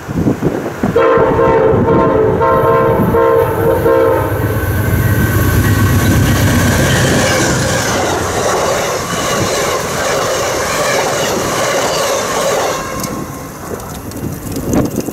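An Amtrak GE Genesis P42DC diesel locomotive sounds its horn for about three seconds, then passes with a low engine rumble. Its passenger cars roll by after it, and the noise fades away about thirteen seconds in.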